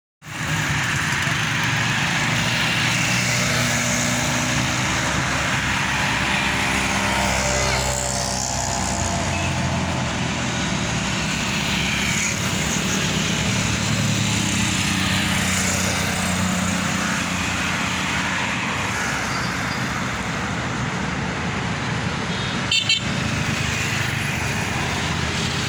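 Highway traffic: engines of passing trucks and cars running over a steady road rumble, one vehicle sweeping past partway through, with a brief horn toot near the end.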